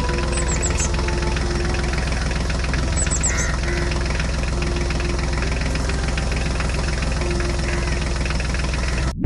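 Diesel engine of a water pump set running steadily with a fast, even knocking beat; the sound cuts off suddenly near the end.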